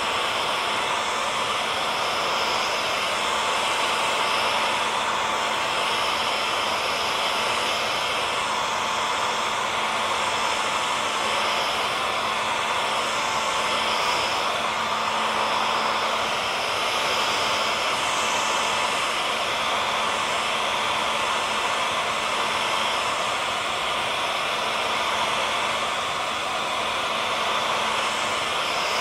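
Hair dryer running steadily: a constant whooshing hiss of blown air with a faint steady motor hum, unchanging throughout.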